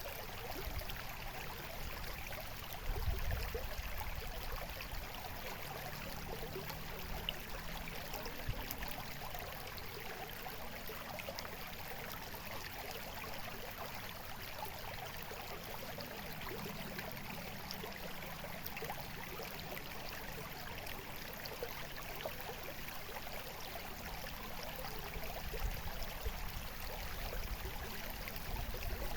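Water in a stream trickling and babbling steadily, with a brief low rumble about three seconds in.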